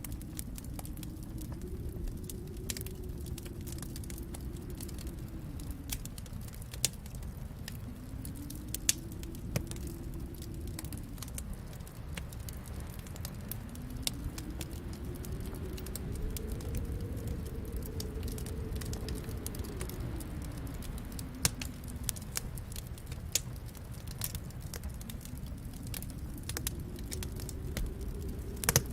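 Wood fire crackling in a fireplace, with scattered sharp pops, over a low snowstorm wind that swells and fades in slow waves every several seconds.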